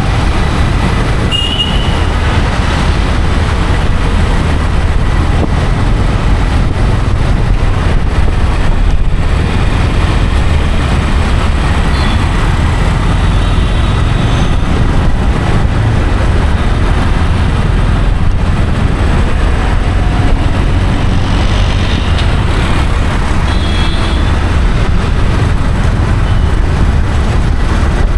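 Steady low rumble and road noise of a moving vehicle, with a few brief faint high tones over it.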